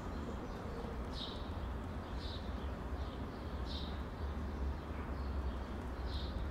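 A bird chirping: short high chirps every second or so, over a steady low rumble.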